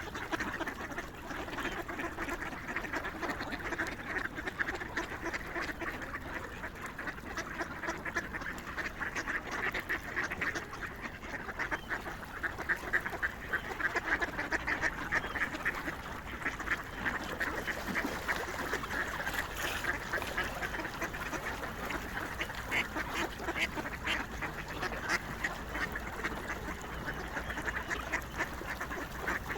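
A flock of waterfowl, swans among them, calling continuously in a dense chatter of many overlapping short quacks and honks.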